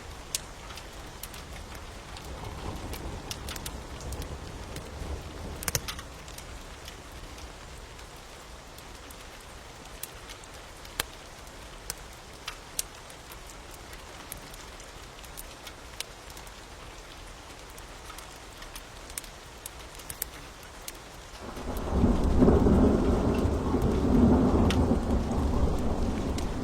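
Steady rain mixed with the sharp crackles and pops of a wood fire. A faint low rumble swells a few seconds in, and about 22 seconds in a loud roll of thunder begins and keeps rumbling.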